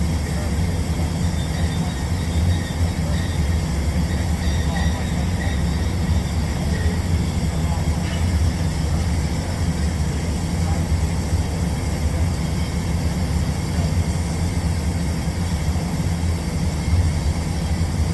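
Steady low machine drone running without a break.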